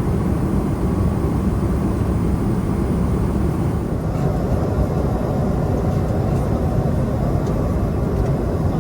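Boeing 777-300ER jet airliner noise: a loud, steady, even rush of engines and airflow that holds level throughout, with most of its weight in the low range.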